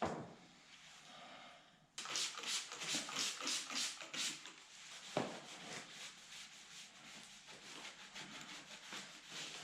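Metal radiator support frame being scrubbed by hand to clean off grease, in quick rhythmic back-and-forth strokes, about four a second, starting about two seconds in. A knock at the start and another about halfway through.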